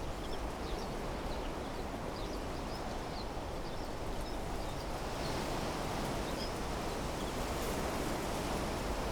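Steady wind blowing through trees with a continuous rustle of leaves. Faint, short, high chirps are scattered through it, mostly in the first half.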